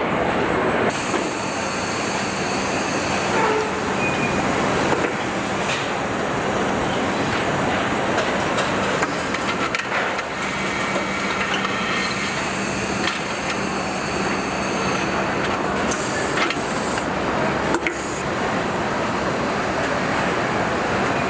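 Truck assembly-line factory noise: a steady mechanical din of conveyors and machinery over a low hum, with scattered clicks and clanks. Two stretches of high hiss, one starting about a second in and another about twelve seconds in, typical of air tools.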